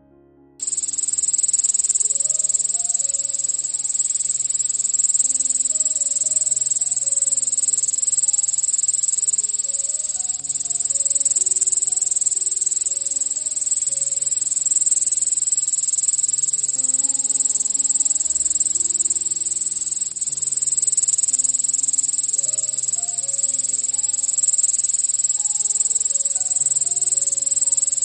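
Cicada calling: one steady, high-pitched continuous buzz that starts about half a second in and holds without a break.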